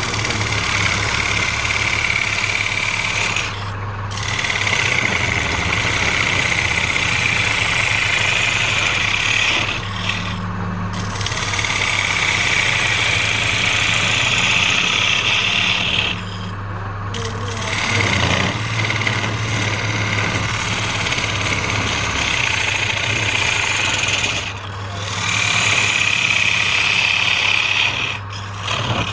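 Wood lathe running with a turning tool cutting the spinning wood: a steady hissing scrape over the lathe's constant hum. The cutting breaks off briefly about five times while the hum continues.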